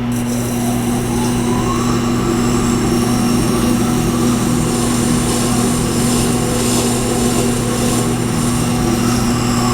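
Tormek T-8 sharpener running with a steady motor hum, while a Leatherman blade's heel is ground on its SG-250 stone, giving an even hiss of steel on stone over the hum.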